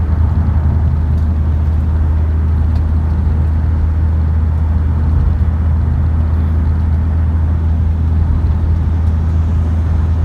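Steady low rumble of a motor vehicle running, holding an even level with no change.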